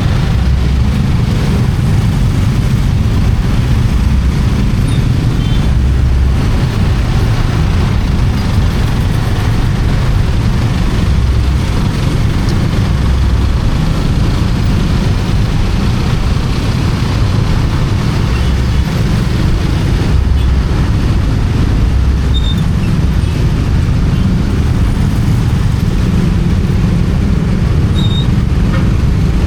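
Motorcycle riding on the road: a steady, loud low rumble of wind buffeting the camera microphone over the engine and road noise.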